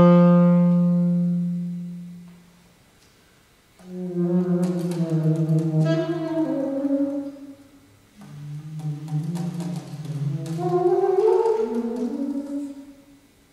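Solo saxophone playing contemporary concert music: a long low note fades away into a pause of about a second, then two phrases of low, shifting notes follow with a short break between them.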